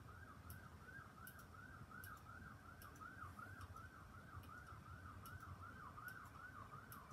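A faint emergency vehicle siren in a fast yelp, its pitch warbling up and down about three times a second, with faint scattered ticks over it.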